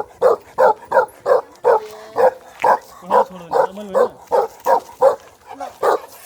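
A Nepalese livestock guardian dog barking repeatedly in a steady run, about three barks a second.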